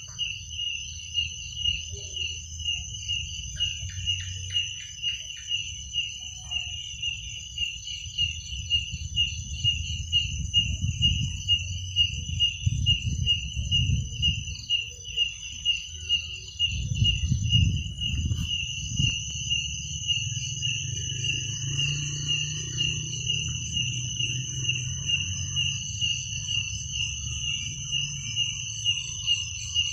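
Crickets chirping in a steady, pulsing trill with regular louder pulses a little more than once a second, over a second, higher continuous insect trill. A low rumble underneath swells in the middle.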